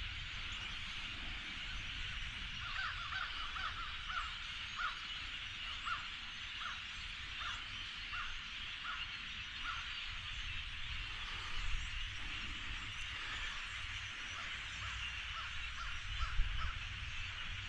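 A huge flock of migrating birds calling together in a continuous racket of thousands of overlapping voices, with one call standing out and repeating every half second or so through most of it.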